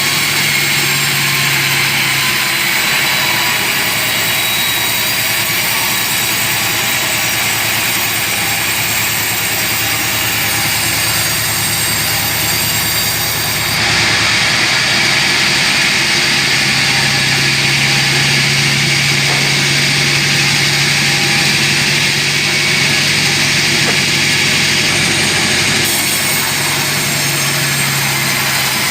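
Sawmill saw running as it cuts through a large teak log: a steady motor hum under a loud hissing cutting noise. The sound shifts abruptly about halfway through and again near the end.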